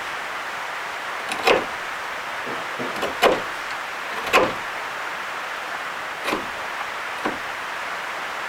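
A kayak moving under sail: a steady rush of water and wind, with five short splashes or knocks at irregular intervals, the loudest near the middle.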